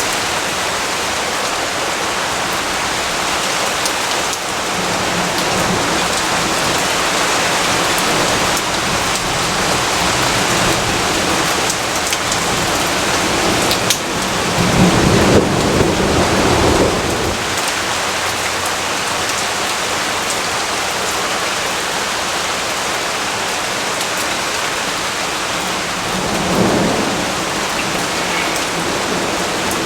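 Steady heavy rainfall hissing, with a low rumble of thunder swelling up about halfway through and a fainter rumble near the end.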